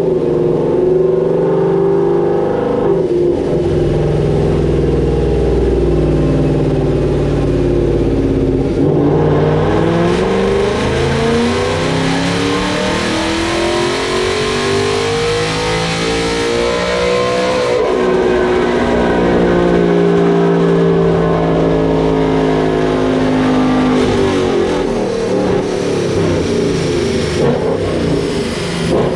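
Full-bolt-on Ford Mustang V8 with a Cobra Jet intake manifold on a chassis dyno, making a wide-open-throttle pull. The engine note climbs steadily in pitch to a peak a little past the middle, then the throttle closes and the engine winds down as the rollers slow.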